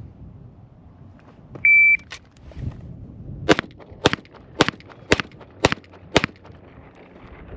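Shot timer's short start beep, then about two seconds later six pistol shots from a Springfield Armory Prodigy, evenly spaced about half a second apart: one string of a timed bill drill, about four and a half seconds from beep to last shot.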